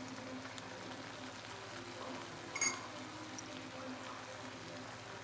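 Tomato puree simmering and bubbling in a pan, with one short clink about two and a half seconds in.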